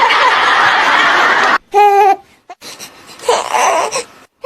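Laughter for about a second and a half, then a short, high-pitched infant cry about two seconds in, and a quieter fussing sound near the end.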